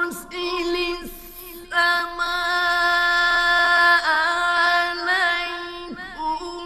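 A man's voice reciting the Quran in melodic tajweed style, stretching syllables into long held notes with ornamented turns of pitch between them.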